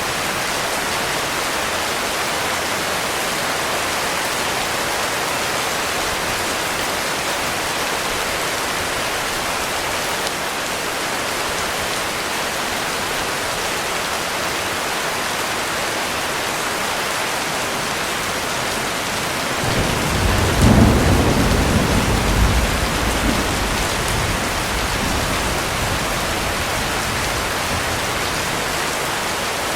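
Heavy rain falls steadily, with one roll of thunder about two-thirds of the way through. The thunder swells in, is loudest a second or so after it starts, and rumbles away over a few seconds.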